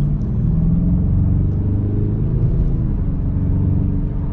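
Dodge Challenger R/T's 5.7-litre Hemi V8 running, heard from inside the cabin as the car accelerates away from a stop, its low engine note rising gently partway through.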